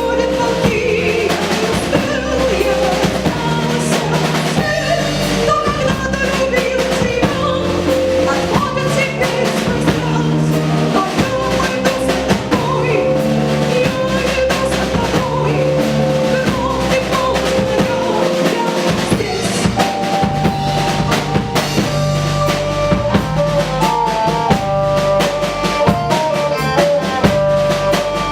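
Live band playing an instrumental passage: a drum kit with kick, snare and rimshots keeps the beat under bass and long held melody notes, and a higher melody line comes in about two-thirds of the way through.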